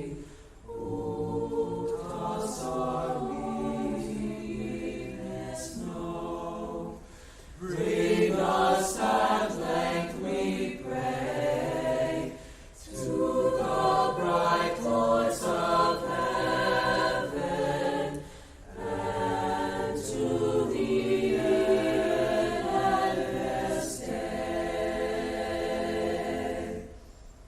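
Choir singing, in phrases a few seconds long with short pauses between them.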